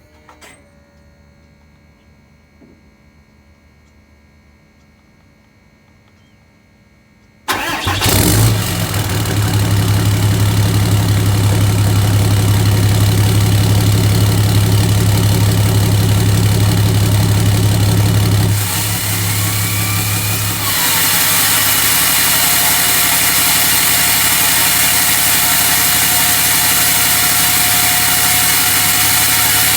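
A 6.7 L Cummins inline-six turbo-diesel in a 2009 Dodge Ram Mega Cab cranks and starts suddenly about seven seconds in, after a faint stretch, then idles loud and steady. About eleven seconds later the tone shifts, a short rising whistle sounds, and a steady high hiss joins the idle, as the exhaust brake engages.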